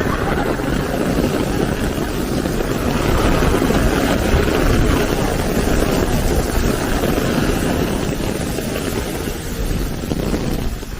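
Storm wind making a steady, loud rumbling roar.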